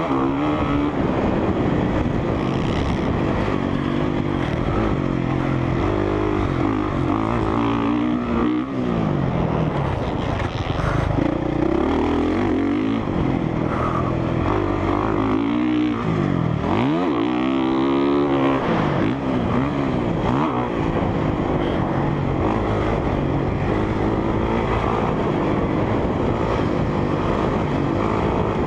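2017 Honda CRF450R's single-cylinder four-stroke engine being ridden around a motocross track, its pitch climbing through the gears and falling when the throttle is rolled off. It drops off sharply about 8 s in and again about halfway through, then climbs back.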